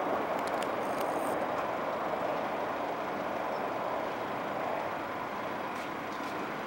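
Hokuriku Shinkansen test train running along the platform, a steady rushing noise that slowly fades, with a few faint clicks.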